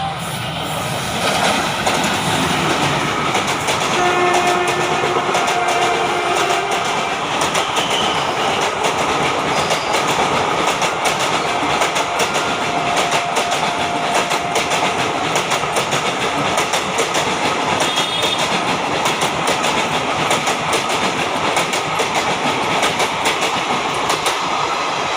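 Indian Railways express train, hauled by an electric locomotive, passing through a station at speed, its wheels clattering rapidly over the rail joints. The locomotive horn sounds about four seconds in for roughly three seconds, and again more faintly a few seconds later.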